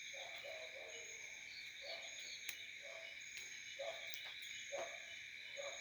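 Night chorus of crickets or other insects, a steady high buzzing. Over it come short low calls, about one a second, from a frog or a bird.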